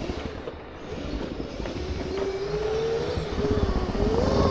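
Segway's electric drive motors whining, the pitch rising and falling as the speed changes, over a low rumble that grows louder toward the end.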